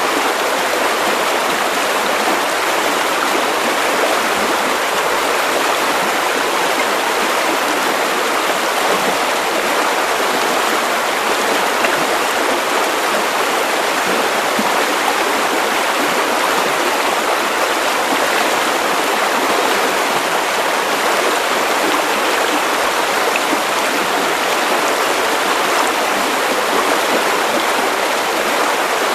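Steady white noise for baby sleep: an even, unchanging hiss, strongest in the middle and upper-middle range with little bass.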